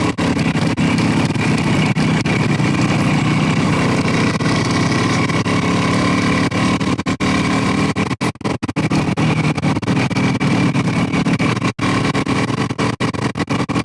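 Motorcycle engine running at a steady pace while riding, over a continuous rushing noise. The sound cuts out for split seconds several times in the second half.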